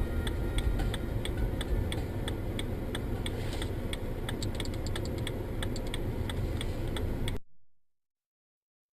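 Low rumble of a moving car heard from inside, with a rapid, steady series of sharp ticks over it; it cuts off abruptly about seven and a half seconds in, leaving silence.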